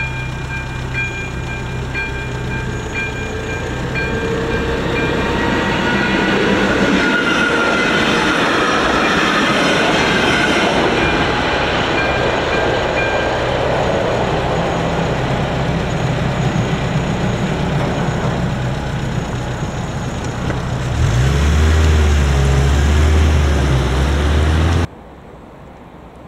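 A level-crossing warning bell rings steadily while a ČD class 460 'Tornádo' electric multiple unit passes over the crossing. The train's running noise builds about four seconds in and covers the bell. A heavy low rumble near the end cuts off suddenly.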